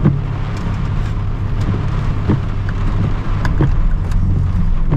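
Steady drone of a car's engine and tyres on a wet road, heard from inside the cabin, with scattered ticks of rain hitting the car.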